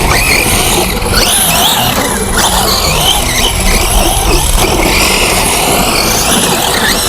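Brushless-motor electric RC truck (X-Ray XB8 EC on a 4S sensored system with a steel spur gear) being driven hard, its high motor and gear whine rising and falling repeatedly with the throttle over a steady rush of noise.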